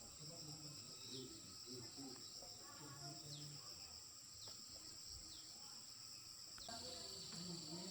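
Steady high-pitched insect chorus, like crickets trilling without a break, with faint voices murmuring underneath. A few short falling chirps come and go, and about seven seconds in the trilling shifts a little lower in pitch.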